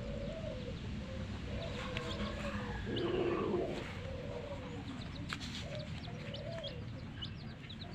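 A hen clucking in low, wavering calls, with chicks peeping in short, high chirps; a louder call comes about three seconds in, over a steady low rumble.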